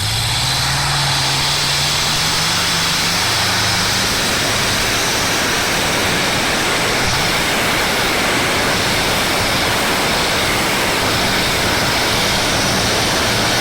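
Competition pulling tractor's engine running flat out under load down the track, a loud, dense, steady noise. Its pitch climbs over the first three seconds and then holds.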